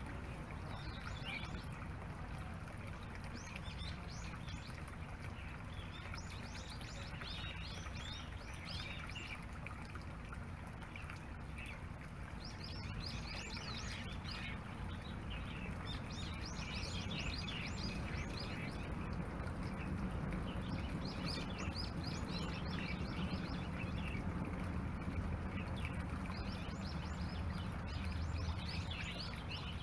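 Small birds chirping and twittering in bursts of quick high notes every few seconds, over a steady low outdoor rumble.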